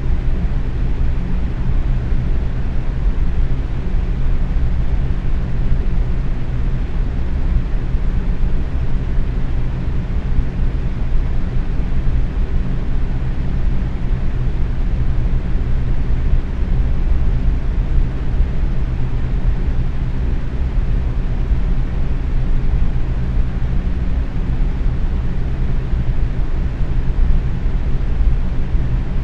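Box fan running steadily on medium speed: an even rushing air noise over a low motor hum.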